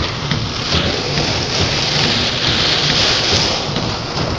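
Heavy rain drumming on a car's roof and windshield, heard from inside the cabin as a steady dense hiss with a low rumble underneath.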